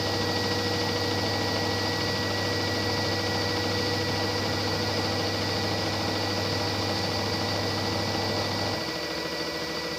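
LG washing machine on its spin cycle at 800 rpm: a steady motor hum with a thin, steady high-pitched tone. About nine seconds in, the low hum drops away and the sound gets slightly quieter, as the spin eases.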